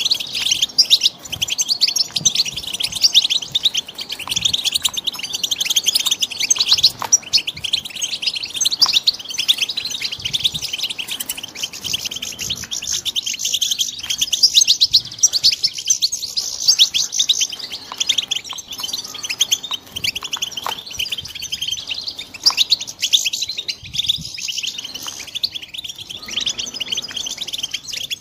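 Young European goldfinches singing: a continuous, rapid, high twittering of quick chirps and trills that never pauses for long.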